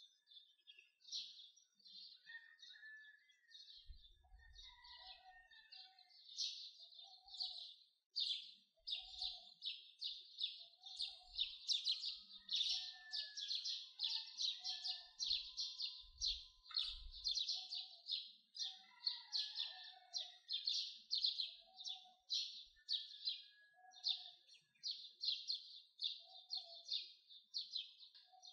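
Birds chirping: a steady run of short high chirps, about two a second, over a lower call repeated roughly once a second.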